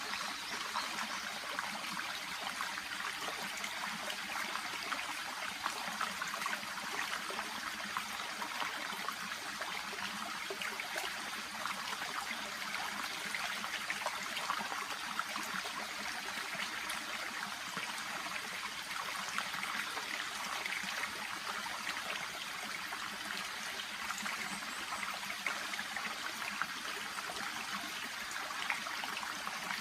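A shallow brook babbling and trickling steadily over stones past water plants, a continuous splashy rush with small crackling droplets.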